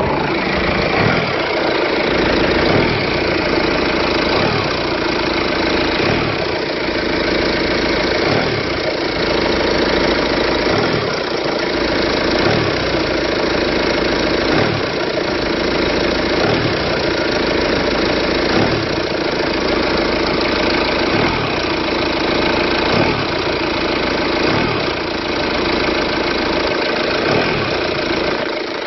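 Audi A4 B8 2.0 TDI four-cylinder turbodiesel engine idling, with a low thump that recurs about every one and a half to two seconds; the owner suspects a faulty engine mount.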